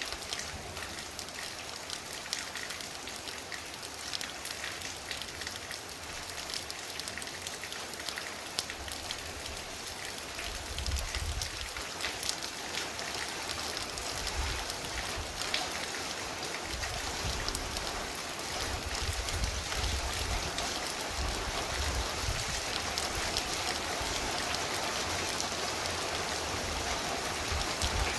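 Heavy, torrential rain pouring down steadily, growing slightly heavier toward the end. From about ten seconds in, irregular low rumbling comes and goes beneath it.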